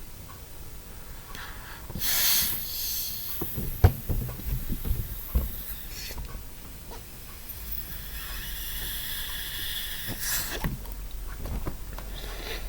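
A person blowing hard by mouth into a long rubber jet balloon: loud breathy gusts, one about two seconds in and a longer one from about eight to ten and a half seconds, with a few sharp knocks and thumps of the balloon being handled in between.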